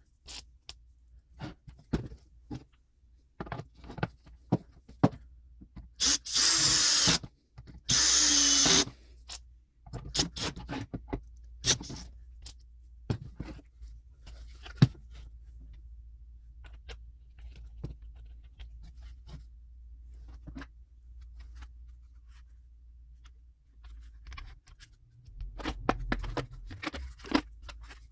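GRUNDER 18V cordless chainsaw's electric motor running in two short bursts, about six and eight seconds in, its pitch dropping as each burst ends. Scattered clicks and knocks of handling come between and after.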